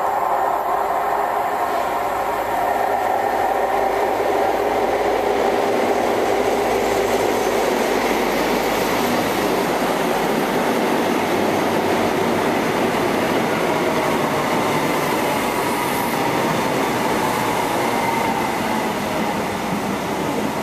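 A First Great Western High Speed Train, a Class 43 diesel power car with its coaches, moving along the platform close by. Its engine and wheels on the rails make a loud, steady rumble.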